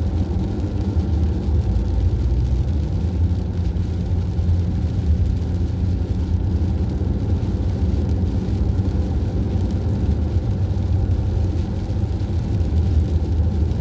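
Steady engine and road noise from a vehicle cruising on a highway: a constant low drone with no change in speed.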